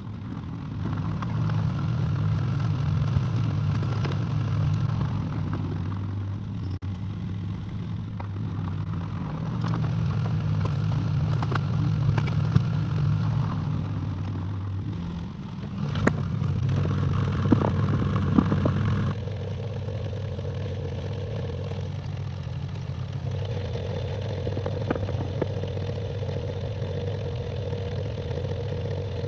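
Excavator engine running steadily, with a few sharp metal clanks and knocks. The engine note jumps abruptly several times, from cuts between clips.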